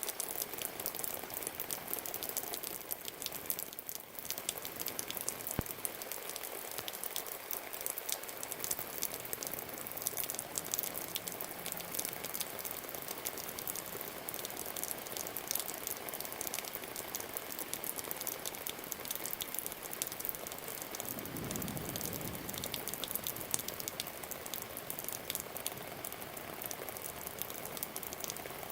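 Steady rain falling, a dense crackle of drops and drips throughout. A low rumble swells briefly about 21 seconds in.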